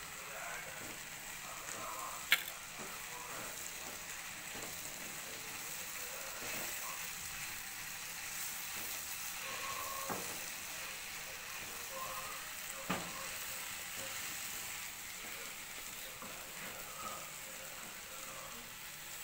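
Bread cubes and potato sizzling steadily as they fry in oil in a pan over a high gas flame, stirred with a wooden spatula. A few sharp knocks of the spatula against the pan come through, the loudest about two seconds in.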